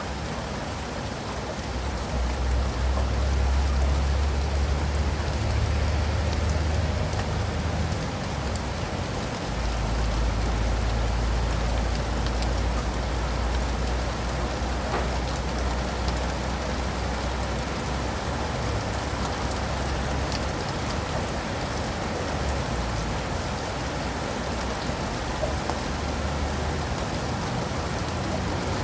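Steady rain falling, an even hiss of drops, with a low rumble underneath that swells for long stretches in the first two-thirds and then fades.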